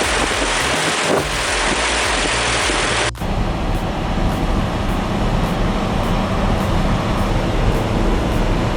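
Heavy earthmoving machine running: a loud noisy rush for about three seconds, then a sudden cut to a steady, deep engine sound.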